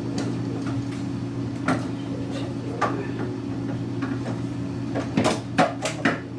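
Food packages and containers being handled and set down while a refrigerator is cleared out: a few separate knocks, then a quick run of louder knocks and clatter near the end, over a steady low hum.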